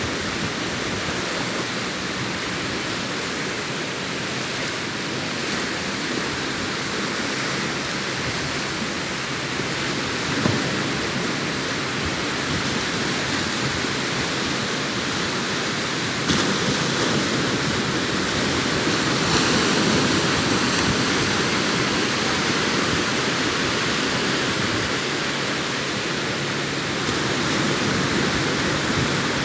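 Sea waves breaking and washing up a beach: a continuous rush of surf that swells a little past the middle.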